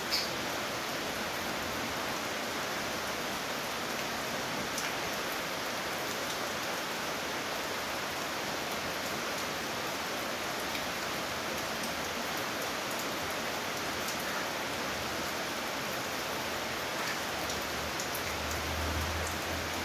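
Steady rain falling and pattering on surfaces, with scattered individual drips. A low hum swells briefly near the end.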